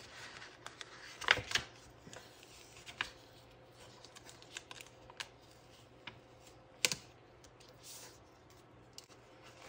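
Small clicks, taps and light rustles of sticker sheets and paper being handled on a desk, with two sharper taps, about a second in and near seven seconds.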